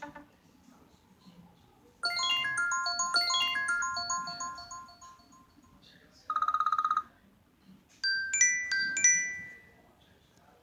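iPhone SE alert tones played one after another: a run of quick bell-like notes fading out, then a short fast buzzing trill, then a few quick rising chime notes near the end.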